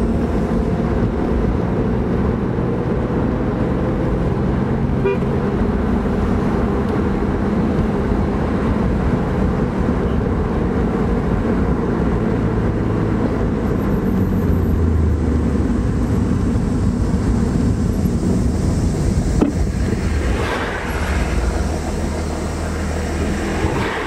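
BMW E36 M3 straight-six engine and road noise heard from inside the cabin while driving. The engine note runs steadily, shifting up and down in pitch, and eases off about twenty seconds in.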